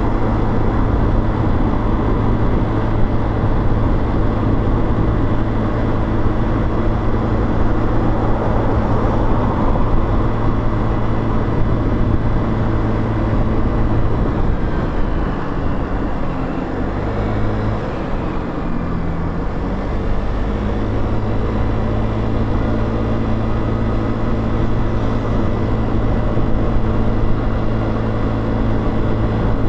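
Motorcycle engine running while riding, with a steady rushing noise over it; around the middle the engine note changes for a few seconds before settling back to a steady hum.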